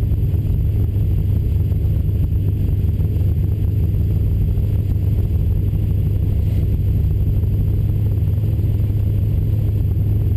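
Small-block Chevy V8 of a 1971 El Camino SS running steadily with a low, even drone and no revving.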